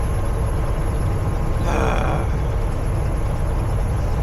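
Steady low drone of a Peterbilt 379 semi truck's engine and road noise heard from inside the cab while cruising on the highway, with one brief higher-pitched sound about two seconds in.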